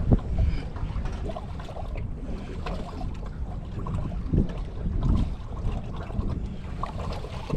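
Wind buffeting the microphone: a steady, uneven low rumble that swells a few times, with small knocks.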